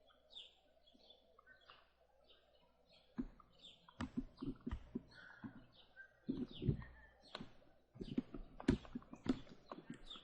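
High, short chirps repeating about twice a second, with irregular knocks and thumps setting in about three seconds in and loudest in the second half.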